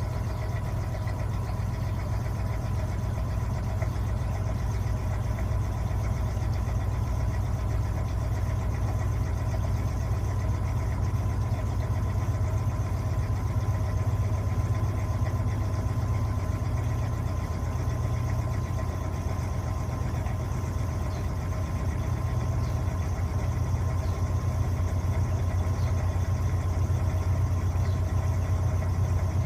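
Electrolux LTA15 washing machine running with a steady low hum that holds without pause and slowly grows a little louder.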